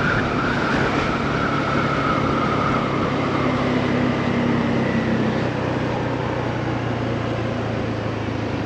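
Motorbike riding along: steady engine running under wind and road noise, with a higher engine tone fading out in the first few seconds.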